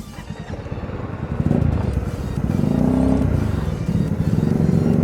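Kawasaki ZX-10R motorcycle engine revving as the bike pulls away. Its note rises about a second and a half in and swells twice.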